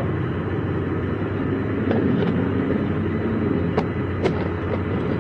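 A motor vehicle running, with a steady low hum under constant road noise and a few short clicks in the second half.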